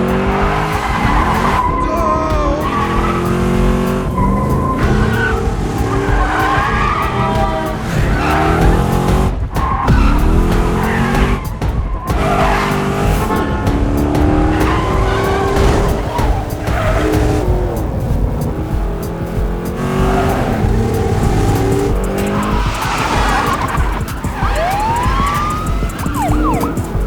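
Car chase: car engines revving and running hard as they change speed, with tyres squealing and skidding, under a music score.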